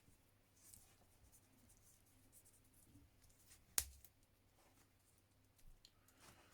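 Near silence with faint rustling of wires being handled and one sharp click a little under four seconds in.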